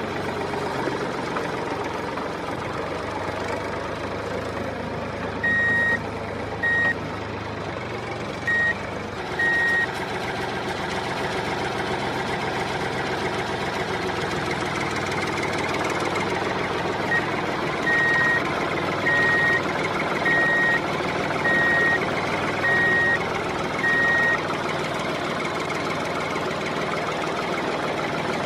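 An electronic reversing-type beeper over a steady small-motor hum. A few irregular beeps sound in the first third, then a regular run of six beeps a little over a second apart about two-thirds of the way in.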